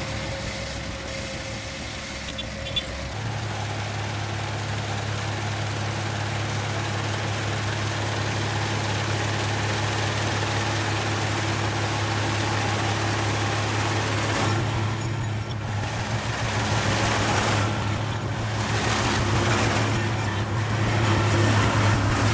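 Engine running steadily, a low hum that gets louder about three seconds in.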